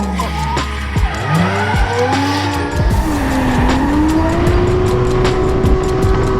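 Turbocharged 1JZ straight-six of a Toyota Chaser JZX100 drift car revving hard during a drift, with tyres squealing. The engine note falls, climbs again about a second in, dips briefly about three and a half seconds in, then holds high and steady.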